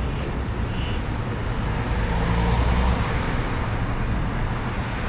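Street traffic: a steady rumble of passing cars and other road vehicles.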